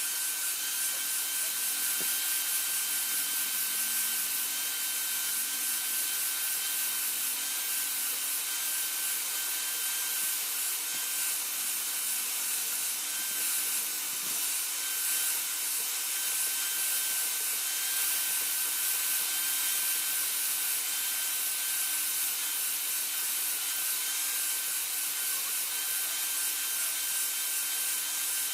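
Continuous abrasive sanding or grinding of a khukuri blade, with a steady machine whine underneath and no hammer strikes.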